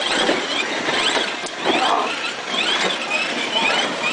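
A child's Thomas the Tank Engine ride-on toy train rolling across a hard floor, with many short, high, rising squeaks repeating irregularly over a steady rolling noise.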